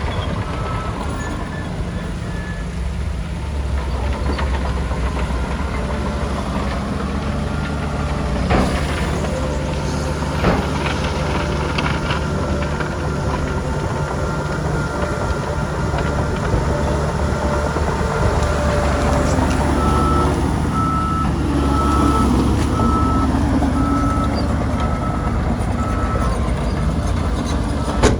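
Heavy diesel engines of earthmoving machines, a bulldozer and dump trucks, running steadily, with two clanks about eight and ten seconds in. From about twenty seconds in, a reversing alarm beeps about once a second as a machine backs up.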